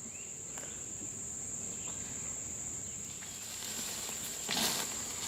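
Insects trilling steadily at a high pitch, with a brief rustle about four and a half seconds in.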